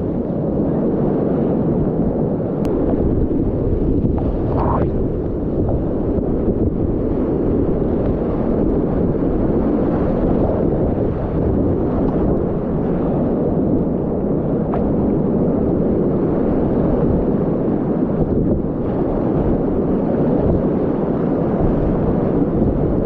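Steady rushing of whitewater rapids on a steep, continuous Class 4 river, heard close up and dull, with most of the sound low and little above it.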